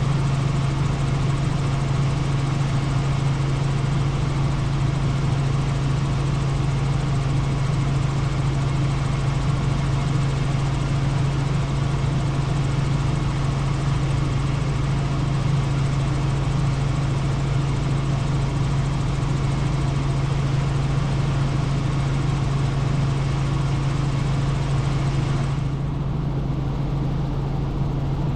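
Helicopter in flight: a steady drone of engine and rotors with a strong low hum. The higher hiss dulls a little near the end.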